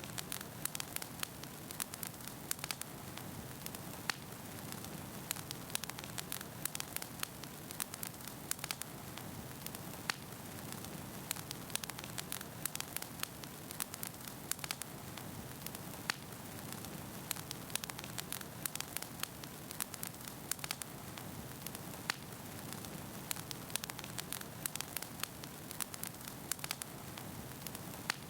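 Wood fire burning in a fireplace: a steady hiss of flames with frequent sharp crackles and pops from the burning logs.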